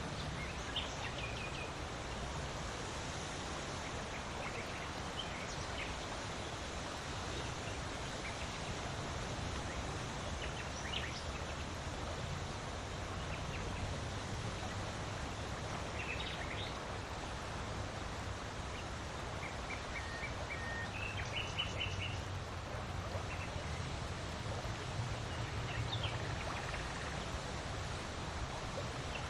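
Steady wind noise, with small birds chirping now and then in short high calls, including a quick run of repeated notes in the middle of the stretch.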